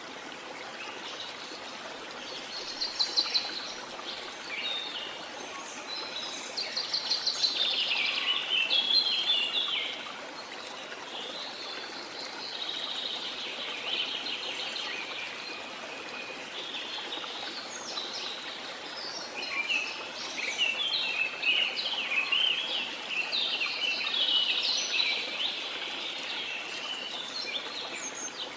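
Birds singing in rapid chirping, trilling phrases every few seconds over the steady rush of running water from a waterfall or stream.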